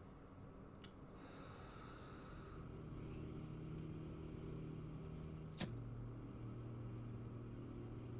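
Faint, steady low drone that swells slightly. After a click about five and a half seconds in, it settles to a lower pitch.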